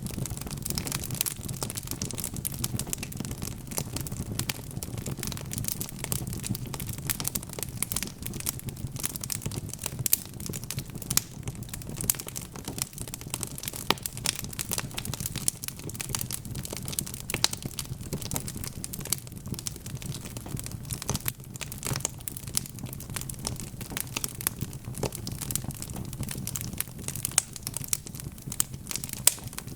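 Wood fire burning steadily, with many small sharp crackles and pops over a low steady rumble of the flames.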